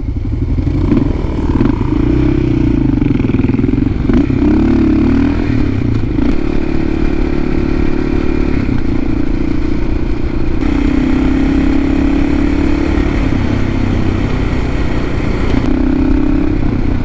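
Dirt bike engine running while being ridden, its note holding steady for a second or two at a time and then shifting up or down with throttle and gear changes.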